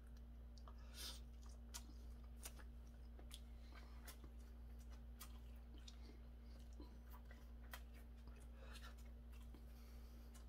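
Faint chewing of a mouthful of triangle kimbap, seaweed-wrapped rice, with scattered soft mouth clicks and crackles over a low steady hum.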